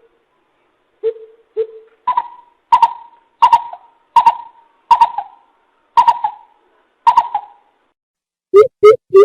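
Coucal (bìm bịp) calling: a series of deep, hollow hooting notes. Two lower notes come first, then about eight higher notes evenly spaced, a little under a second apart.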